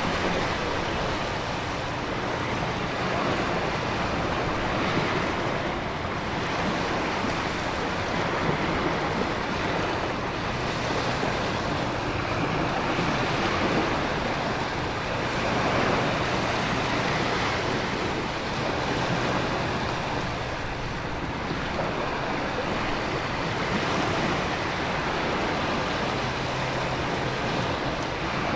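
Storm ambience: heavy rain and wind with ocean surf, a dense steady rush that swells and eases every few seconds.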